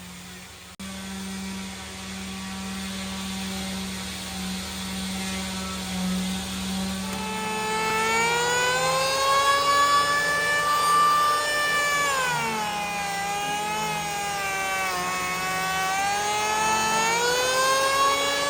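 A power tool's motor whining; its pitch rises, dips and recovers over several seconds, as a motor does under changing load. A steady low hum runs under it for the first seven seconds or so.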